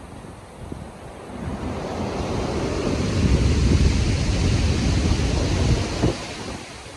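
Stormy ocean waves: a wave swells in about a second and a half in, breaks with a deep rumbling wash, and falls away near the end, with wind noise throughout.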